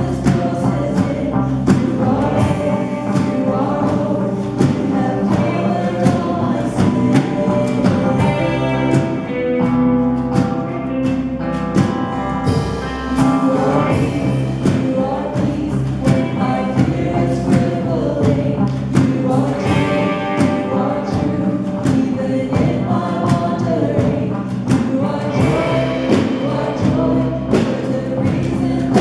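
Church worship music: a group of voices singing a gospel song over a band with a steady beat.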